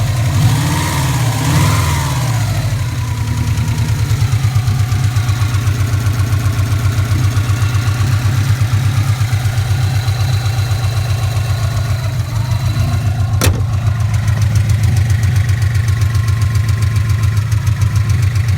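Classic Subaru Impreza's flat-four boxer engine idling with a steady, rapid ticking that stays when the engine is warm. The owner suspects noisy shimmed valve buckets in the unrebuilt heads, with rod knock as the other fear after a recent bottom-end rebuild. A single sharp click sounds about three-quarters of the way through.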